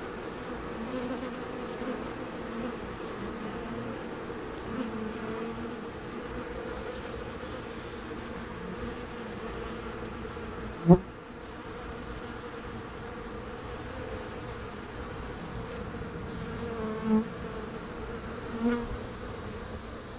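Swarm of honey bees buzzing around an open hive box, a steady hum. About halfway through there is one sharp knock, with a couple of softer bumps near the end.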